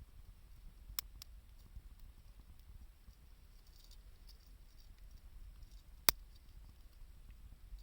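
Wood fire crackling quietly, with scattered faint ticks and a few sharp pops: two close together about a second in and the loudest about six seconds in.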